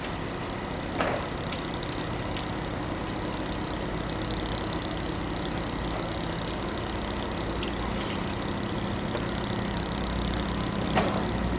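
Heavy truck engine running steadily, with a few short knocks.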